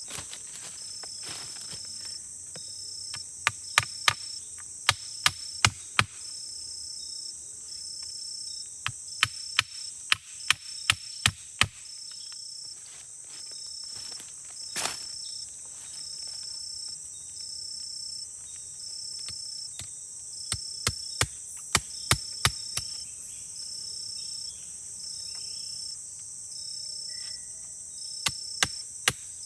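Steady chorus of forest insects, one of them pulsing in a fast even rhythm. It is broken four times by bursts of four to six sharp knocks, about two a second, which are the loudest sounds.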